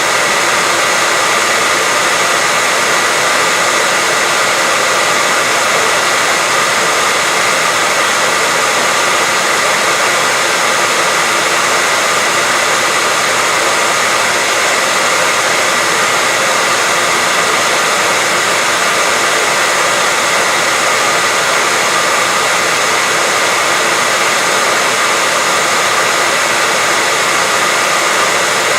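Continuous white noise: an even, unchanging hiss, bright and thin in the bass, with a faint steady tone running through it.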